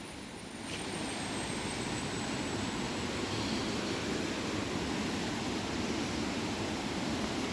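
Siriphum Waterfall's water rushing in a steady, even wash of noise, which grows a little louder about a second in.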